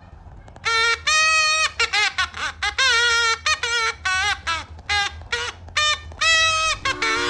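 A string of short, high-pitched, squeaky creature calls with wavering, bending pitch, like a cartoon baby-dinosaur sound effect, starting about a second in and running in quick bursts to near the end.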